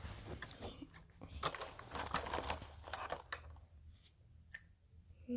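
Packaging crinkling and tearing as it is worked open by hand for about three seconds, then a single sharp click.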